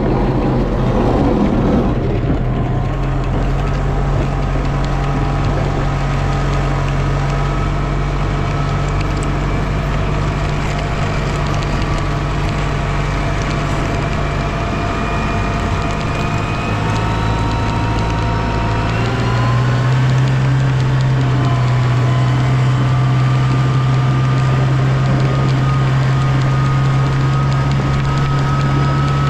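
Engine of a snow-plowing vehicle running steadily, with thin whining tones that slowly climb in pitch. The engine note steps up slightly and gets a little louder about two-thirds of the way through.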